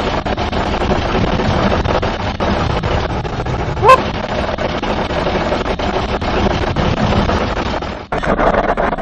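A small motor running steadily, with a short rising squeal about four seconds in and a brief drop-out near the end.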